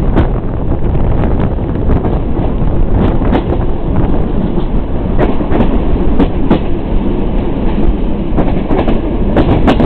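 Intercity passenger train running along the line, heard at an open carriage window: a loud, steady rumble of wheels on the rails with irregular clacks.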